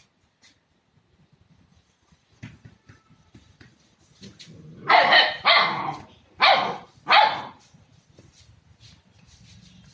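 Dogo Argentino puppy barking four times in quick succession, about halfway through, after a quiet stretch with faint scuffling.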